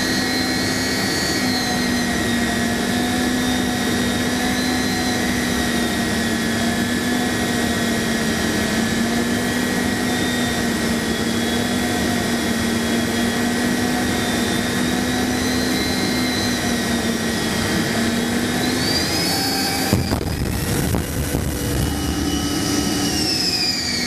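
Jet aircraft's engine running steadily on a carrier landing approach, a loud whine with slightly wavering tones. About twenty seconds in a sudden thump marks the touchdown on the deck, and the engine tones then shift and glide in pitch.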